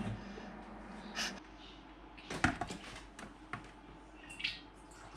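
A few faint clicks and knocks of equipment being handled, the sharpest about halfway through, with a soft brief rustle near the end.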